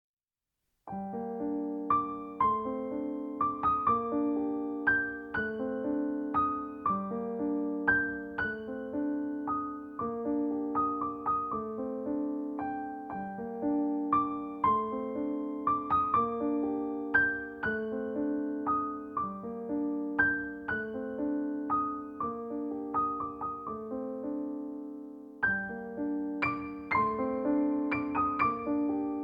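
Background piano music: gentle repeated chords and melody notes, starting about a second in, with a short break near the end before it resumes.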